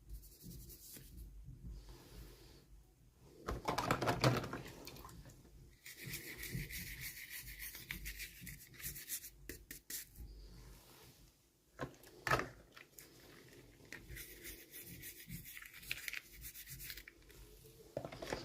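Hands handling and unwrapping toy packaging: irregular rubbing and scraping, with a louder burst about four seconds in and a sharp click a little past the middle.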